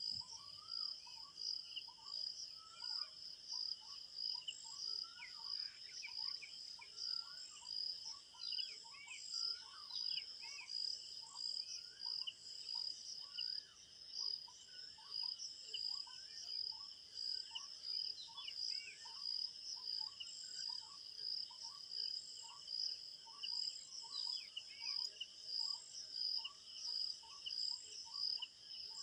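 Crickets chirping in a steady, high, pulsing trill, with birds calling throughout in short repeated chirps and quick falling whistles.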